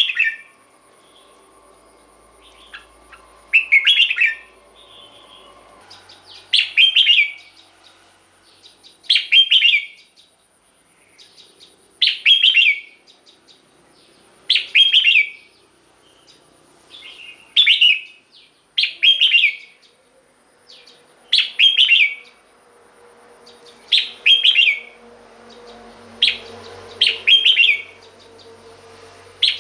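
Red-whiskered bulbul singing: a short, bright warbled phrase repeated about every two and a half seconds.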